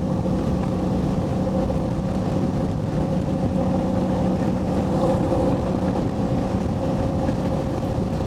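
Motorcycle engine running steadily at highway cruising speed, a constant engine drone with wind noise over the microphone.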